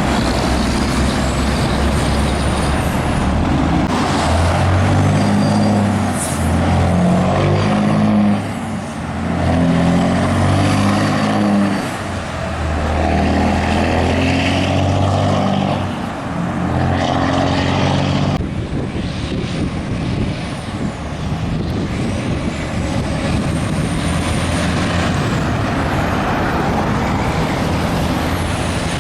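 Heavy diesel trucks passing on a highway, with steady tyre and engine noise. From a few seconds in, one truck's engine note steps up and down in pitch several times, with brief dips in loudness between the steps, and then fades into the road noise after about eighteen seconds.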